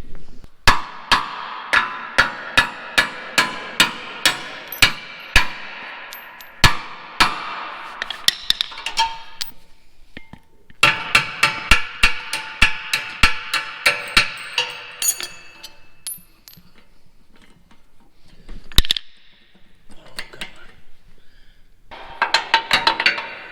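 Hammer striking metal on a worn air seeder, steady blows about two or three a second with a ringing note, in several runs broken by short pauses.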